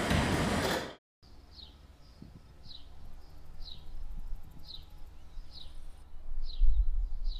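A loud, steady mechanical rumble cuts off abruptly about a second in. After it, a bird repeats a short, high, falling chirp about once a second over faint outdoor ambience, with a brief low rumble near the end.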